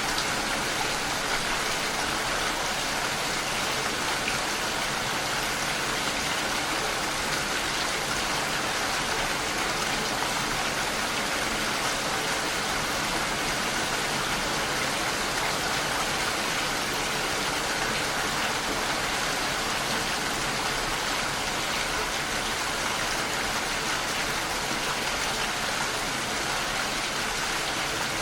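Steady rain falling, an even hiss with no thunder or other distinct events.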